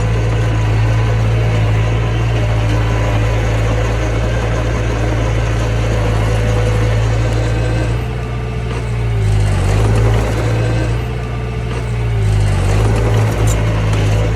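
Mini bulldozer's diesel engine running steadily under work, its pitch dipping briefly twice, about nine and twelve seconds in.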